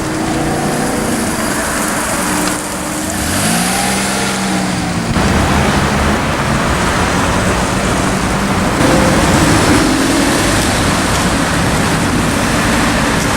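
A car engine revving, its pitch rising and falling about four seconds in and again briefly later. Over most of the rest there is a steady loud rush of road and traffic noise.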